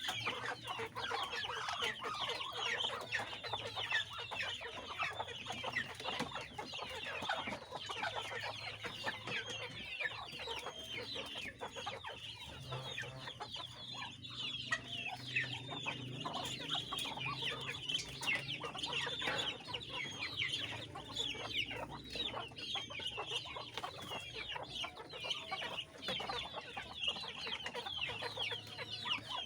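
A flock of poultry calling without pause: many overlapping short, high clucks and peeps.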